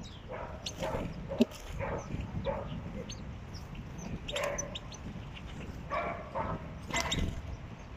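A dog yipping and whimpering in short calls several times, with faint chirps of small birds.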